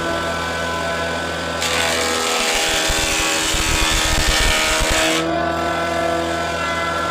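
Electric woodworking power tool running with a steady motor hum. For a few seconds in the middle a loud hiss comes in and the hum turns uneven as the tool cuts into wood.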